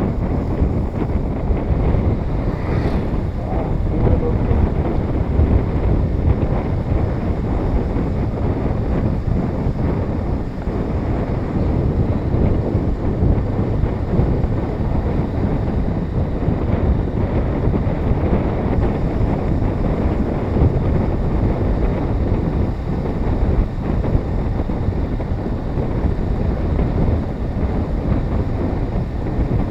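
Wind buffeting the microphone of a moving motorcycle: a steady, low rumble at riding speed that covers any engine sound.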